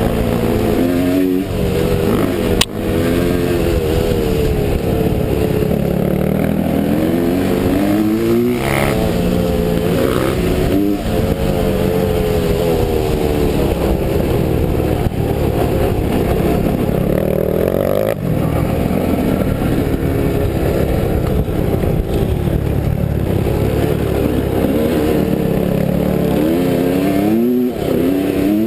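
Off-road motorcycle engine revving up and down continuously under riding, its pitch rising and falling over and over, with a sharp knock about two and a half seconds in.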